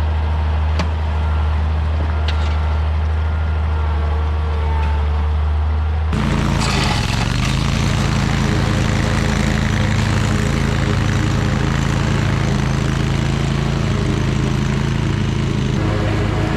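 Toro Titan Max zero-turn mower's engine running steadily while mowing. About six seconds in, the sound switches abruptly to a brighter, noisier steady run.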